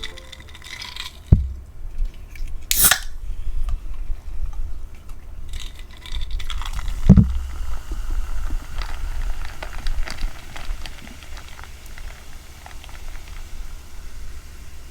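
Close-miked eating sounds: wet chewing with many small clicks and crackles, a short sharp burst just under three seconds in, and a couple of dull thumps.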